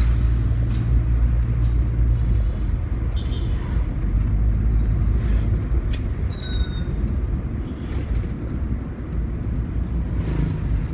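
Steady low engine and road rumble of a car in motion, heard from inside the cabin.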